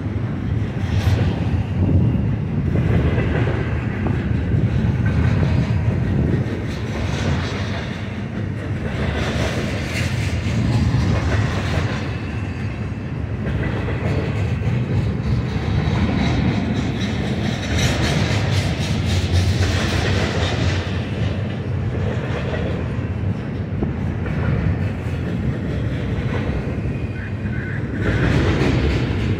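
Double-stack intermodal well cars of a BNSF freight train rolling past close by: a steady rumble of steel wheels on rail with clickety-clack over the rail joints. It swells louder and hissier every eight seconds or so as cars go by.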